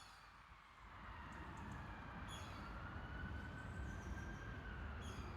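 Faint low rumble of road traffic that swells about a second in and then holds steady, with a few short high bird chirps over it.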